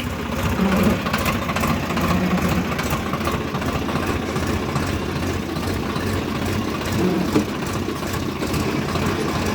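Swaraj tractor's diesel engine running steadily, with a rapid even chugging of firing pulses.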